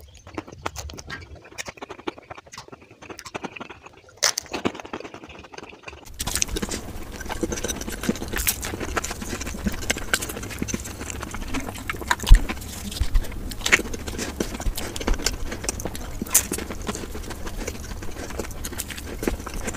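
Close-miked eating of samosas: the crust crunching and wet chewing, with many sharp mouth clicks. About six seconds in it becomes louder and denser, with a low rumble underneath.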